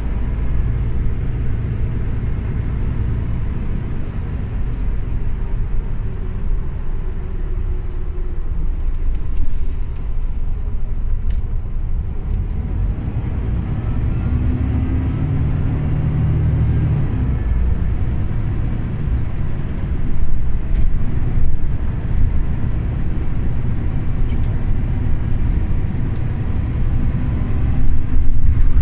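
Scania OmniLink city bus under way: a steady low engine and road rumble with scattered clicks. The engine tone grows stronger around the middle and the sound gets louder toward the end.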